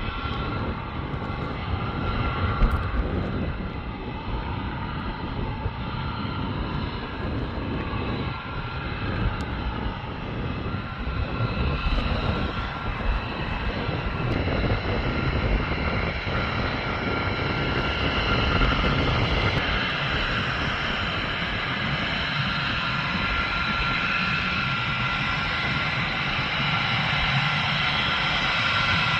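F-22 Raptor's twin Pratt & Whitney F119 turbofan jet engines running: a continuous whine of several steady tones over a low rumble, growing slightly stronger in the upper range about two-thirds of the way through.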